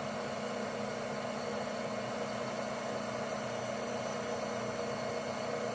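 Steady machine hum with an even hiss, running unchanged throughout.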